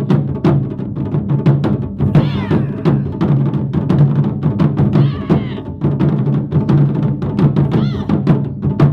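Japanese taiko drums played in a fast, dense rhythm, with a high rising-and-falling cry over the drumming about every three seconds.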